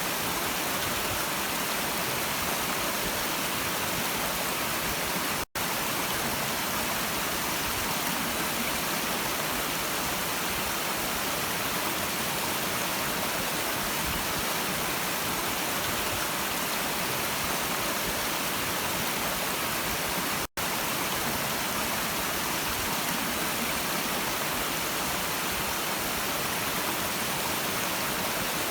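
Stream water rushing in a steady, even hiss, cutting out for an instant twice, about five seconds and about twenty seconds in.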